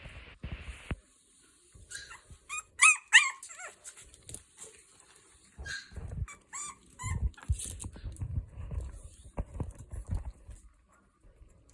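Boston Terrier puppies whimpering: short, high squeaky cries, the loudest two close together about three seconds in and a few more around six to seven seconds, with low bumping and rustling of the puppies moving in the second half.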